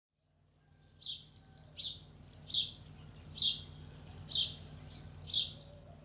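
A bird calling: a short, high chirp that sweeps downward, repeated six times at about one-second intervals, over a faint steady low hum.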